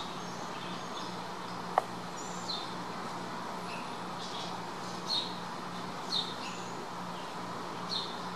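Birds chirping in short, repeated calls about once a second, over a steady low hum and hiss. A single short, sharp blip about two seconds in.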